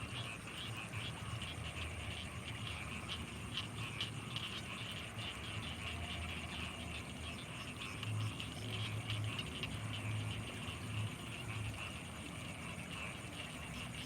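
Night chorus of frogs and insects: a dense, rapid rattling trill over a steady high-pitched insect whine. A low pulsing sound comes in spells from about eight seconds in.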